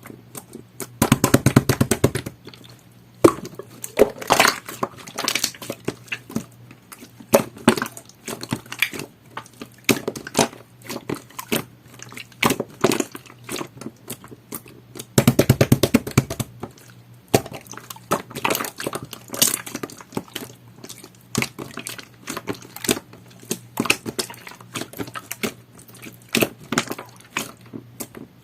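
Jelly-textured slime being squeezed and poked by hand, giving a run of wet clicks and pops, with two longer squelching stretches about a second in and about halfway through.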